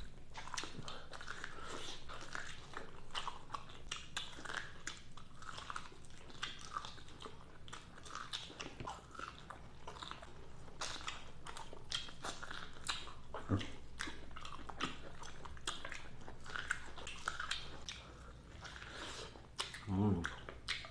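Close-up chewing and crunching of crispy fried shrimp, with many short crisp crunches one after another.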